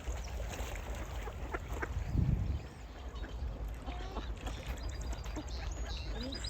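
Ducks quacking, over a steady low rumble of wind on the microphone, with a low thump about two seconds in.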